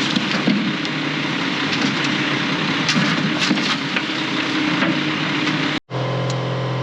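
Heavy diesel equipment running with a steady engine drone and dense rattling and clicking. About six seconds in, a hard cut to a smoother, lower diesel hum from inside the skid steer.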